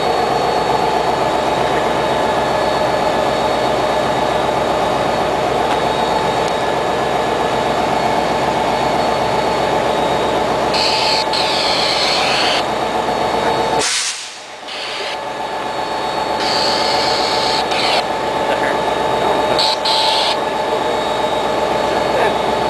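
NJ Transit train running close to the microphone: a loud, steady mechanical drone with several steady engine tones, dropping out suddenly for a moment about fourteen seconds in.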